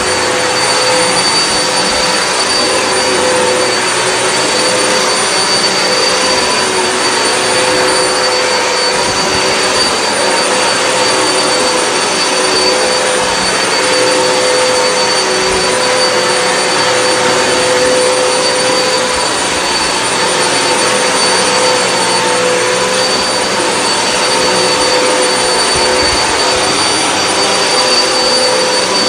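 Hoover WindTunnel High Capacity upright vacuum cleaner running steadily over carpet: an even rush of air with a steady motor whine.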